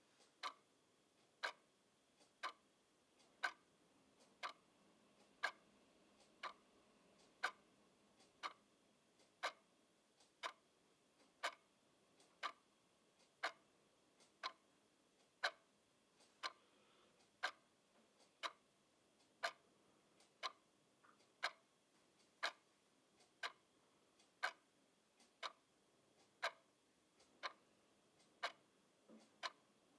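Clock ticking steadily, about one tick a second, some ticks louder than others.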